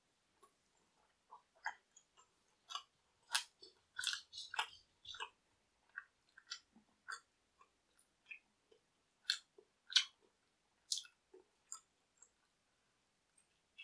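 A person biting and chewing thin-crust pizza: irregular crisp crunches and mouth clicks, loudest a few seconds in and again about ten seconds in.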